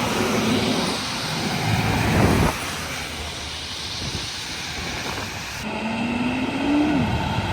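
Heavy utility trucks in a convoy driving past, with engine rumble and tyre noise. About six seconds in, one engine's pitch rises as it accelerates, then drops.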